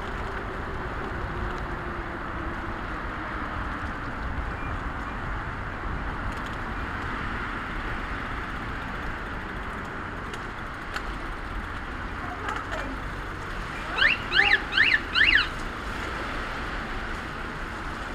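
Steady outdoor hiss of wind and wet road noise, with four loud, quick high-pitched chirps about fourteen seconds in.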